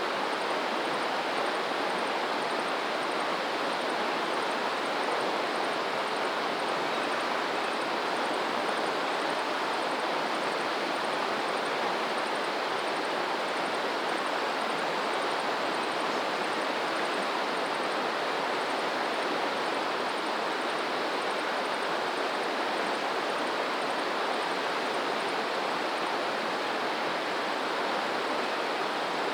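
Steady rushing of flowing water, even and unbroken, like a stream or small waterfall. A faint high chirp repeats a couple of times a second over it and stops near the end.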